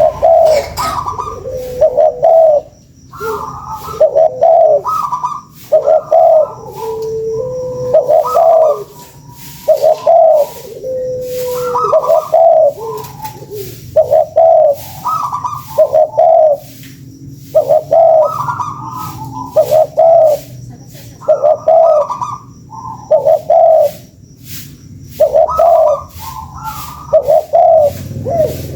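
Spotted doves (tekukur) cooing over and over, short rolling coo phrases following each other every second or two.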